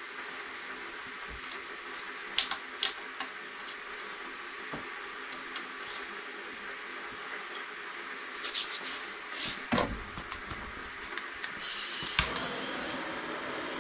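Wood fire burning in a home fireplace: a steady hiss with scattered sharp pops and knocks, a cluster of them about nine to ten seconds in.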